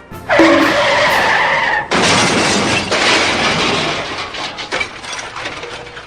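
Car crash sound effect: tyres screech with a high squeal for about a second and a half, then a loud crash that slowly dies away.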